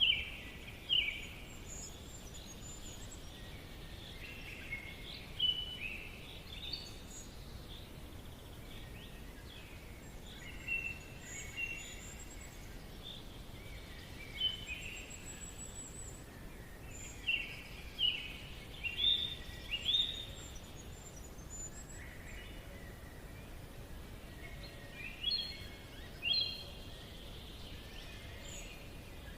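Forest ambience: several birds calling in short phrases and chirps over a steady low background hiss.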